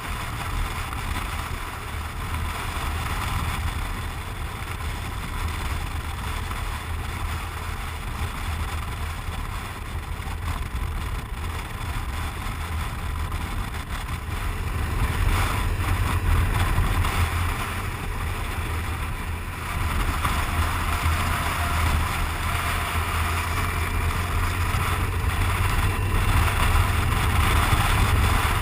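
Motorcycle engine droning steadily under way, with wind rushing over the microphone.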